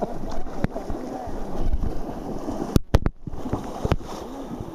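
River ambience with wind on the microphone and faint, distant voices, broken by two sharp knocks close together about three seconds in.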